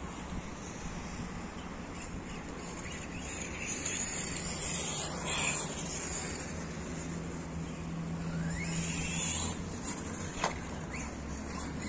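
Electric RC car running, its motor and gearing whining up and down twice as it speeds and slows, over a steady low hum, with one sharp click near the end.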